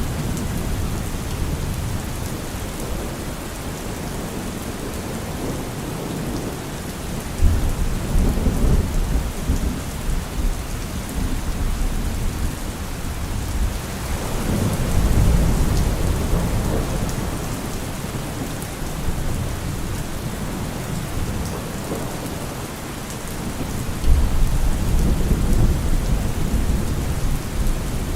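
Heavy rain falling steadily on a car roof, with three rolls of thunder. The first comes about a quarter of the way in, the second around the middle and the last near the end, each rumbling low for a few seconds.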